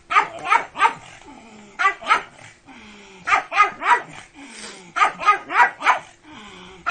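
Pug barking in quick runs of three to five barks, a new run about every second and a half.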